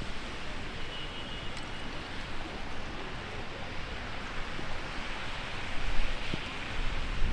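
Heavy rain pouring steadily on a city street, with gusts of wind buffeting the microphone in low rumbles about six and seven seconds in.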